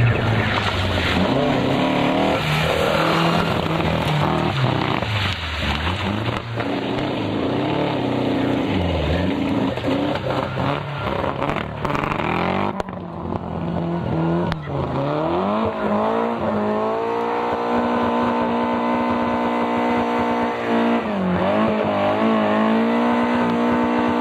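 Rally car engines at full throttle, revs rising and falling through gear changes. About halfway through the sound changes abruptly, and then one engine holds high, steady revs with a brief lift and pick-up near the end.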